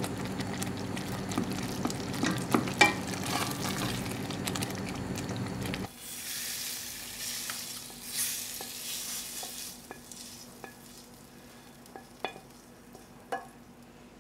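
Thick tomato-and-onion curry base sizzling in a stainless steel saucepan while a spoon stirs and scrapes through it, with scattered clicks. About six seconds in the stirring stops abruptly and chicken pieces go into the pan, giving a brighter hiss that fades after a few seconds, followed by a few light taps.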